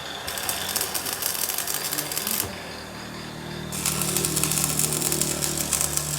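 Workshop machinery running with a fast, dense rattling clatter that stops for about a second past the middle and then resumes, with a steady motor hum coming in about halfway through.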